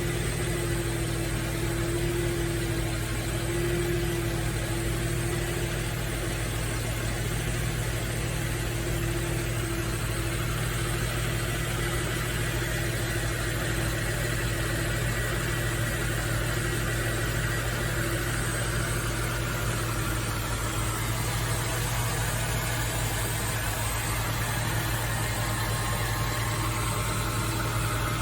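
Freshly overhauled VQ35DE V6 engine of a Nissan Z33 Fairlady Z, idling steadily.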